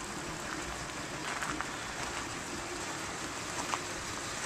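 1949 Dodge Meadowbrook's flathead straight-six engine idling quietly: a faint steady hum under a soft, even hiss.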